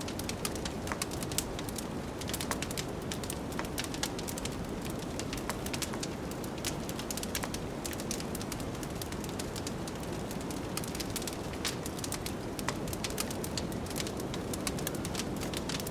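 Wood fire crackling with frequent irregular sharp pops and snaps over a steady low rush of blizzard wind.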